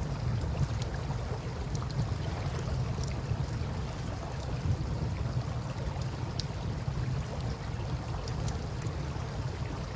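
Campfire burning with scattered small crackles and pops over a steady low rumble of river water and wind.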